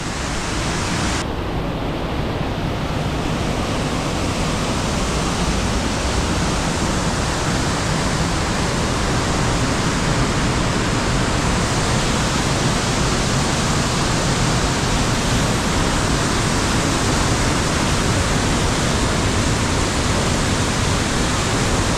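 Waterfall rushing: a steady, loud hiss of falling water that becomes brighter about a second in.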